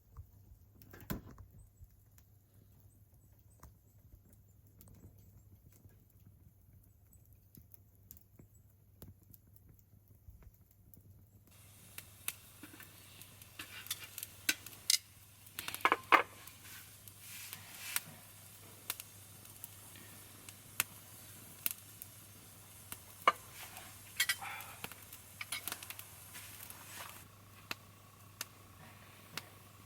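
Small hard objects being handled. It is nearly quiet at first, then from about a third of the way in comes an irregular run of light clicks and knocks, one with a short ring just past halfway.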